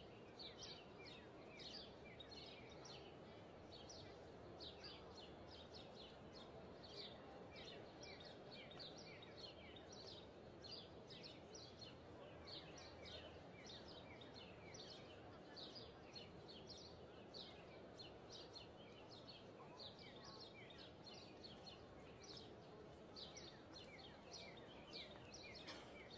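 Faint birdsong: many short, high chirps that drop in pitch, several a second, from birds over a soft steady outdoor hush.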